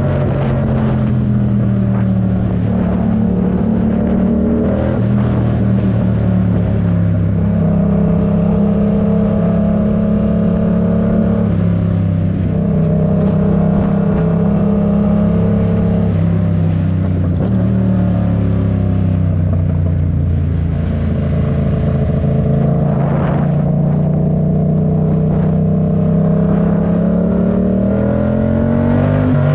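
Yamaha MT-07 parallel-twin engine running under way. Its pitch rises and falls, with a few sudden drops.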